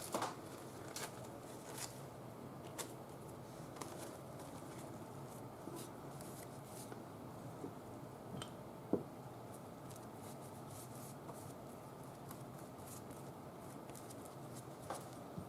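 Faint rustles and small ticks of paper napkin pieces being handled and laid on a paper page, with one sharper tick about nine seconds in.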